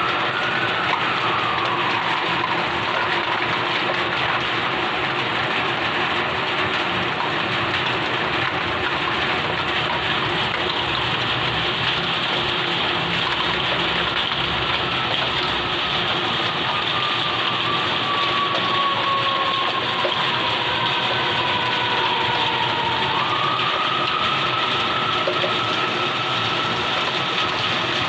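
Steady rushing hiss of a heavy rain downpour and running water. A siren wails in the background, rising near the start, sliding slowly down, then stepping back up about two-thirds of the way through.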